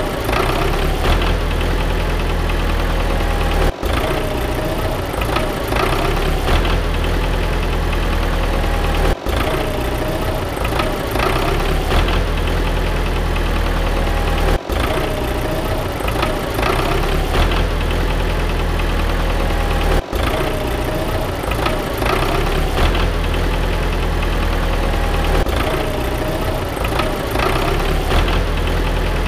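Tractor engine sound effect idling with a steady knocking chug, dubbed over a toy tractor. It breaks off for an instant about every five and a half seconds, where the recording loops.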